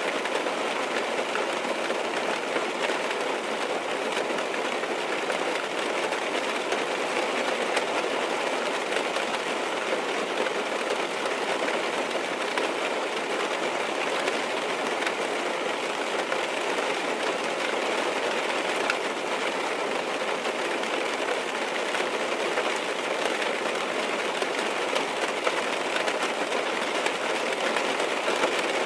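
Rain falling steadily on a car's roof and windows, heard from inside the car: a dense, even patter of drops that holds at one level throughout.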